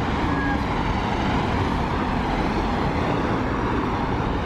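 Steady noise of road traffic, cars passing along a busy city boulevard.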